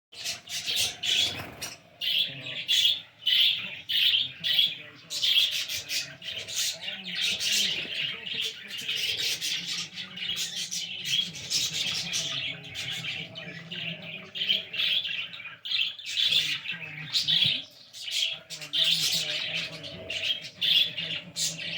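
A flock of small pet birds chirping and squawking without pause, many calls overlapping.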